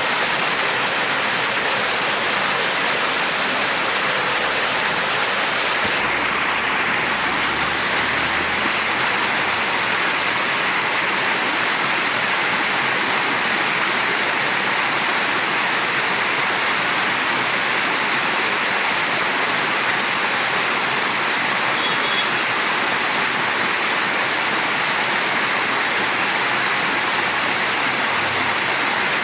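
Mountain stream rushing steadily over rocks: an even, unbroken rush of water with its weight in the upper range.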